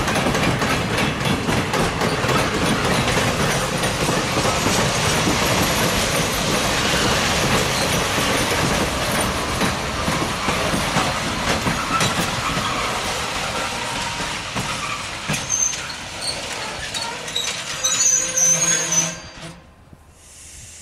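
Freight train of loaded open gondola wagons rolling past on the rails, wheels clacking over the track with a steady heavy rumble. Short high squeals come from the wheels near the end, then the sound drops away abruptly.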